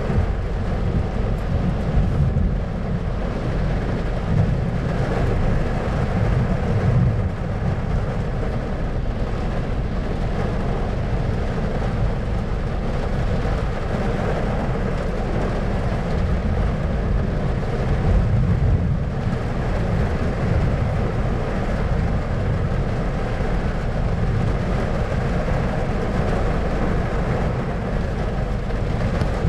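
Thunderstorm ambience: a steady deep rumble with slow swells of rolling thunder, over an even hiss.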